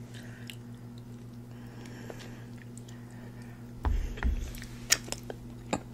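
Faint chewing and mouth sounds close to the microphone over a steady low hum. About four seconds in come a couple of soft low thuds as the fork goes back into the food on a paper plate, then a few sharp clicks near the end.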